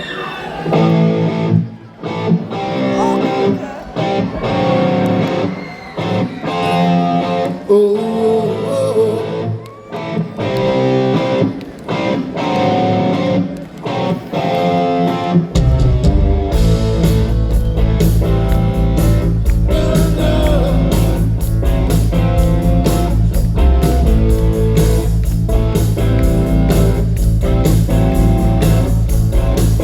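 Rock band playing live, heard from the audience: an electric-guitar-led passage, with bass and drums coming in about halfway through and the full band then playing at a steady, loud level.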